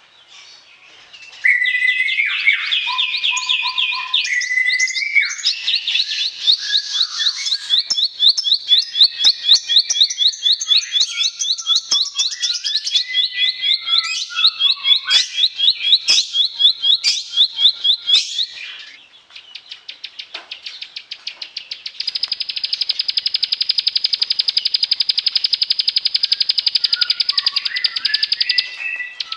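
Bar-winged prinia (ciblek) singing. A few varied chirps give way to a long run of sharp notes repeated about four times a second. After a short break comes a fast, steady, high trill lasting several seconds.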